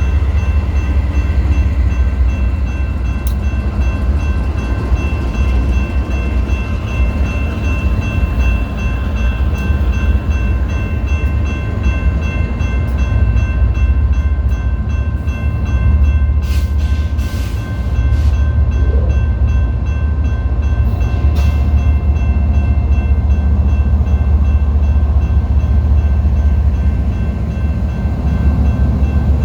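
BNSF freight train rolling past, a steady heavy rumble with a few faint steady ringing tones above it and a couple of brief clanks a little past the middle.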